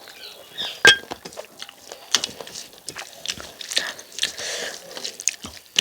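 Close-miked eating of rice and chicken curry: wet chewing and lip-smacking with many short clicks, and one loud sharp click about a second in.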